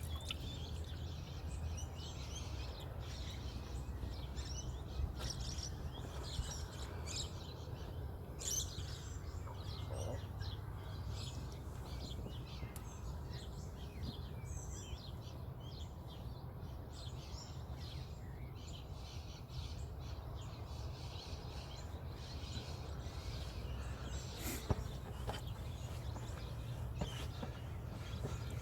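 Many birds chirping and singing, with short calls and trills one after another, over a steady low rumble.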